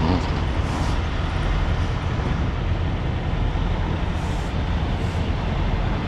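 Semi truck's diesel engine running steadily, a low even drone.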